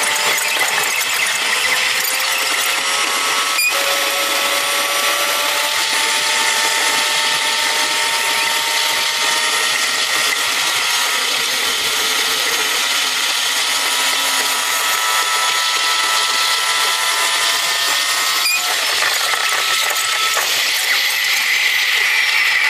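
A diesel railcar's running sound, engine and wheels on the rails, played back eight times faster than real time. It comes out as a dense, high-pitched rushing whine with thin tones that glide slowly up and down. Two sharp clicks come through, one about four seconds in and one near the end.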